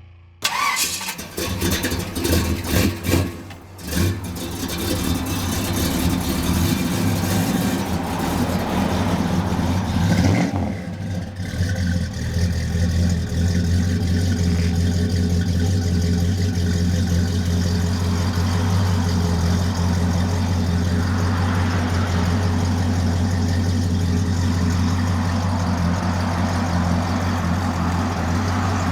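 Classic American car engine cranked and catching about half a second in, running unevenly for a few seconds, revved around ten seconds in, then settling into a steady idle.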